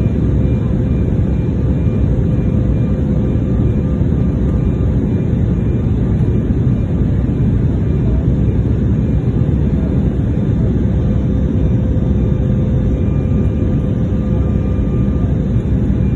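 Steady rumble of an airliner's engines and rushing air heard inside the passenger cabin, with a faint constant whine over it.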